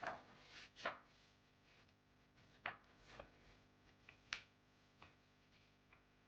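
A handful of light, separate taps and clicks from small objects being handled, the sharpest about a second in and again near the middle, over a quiet room.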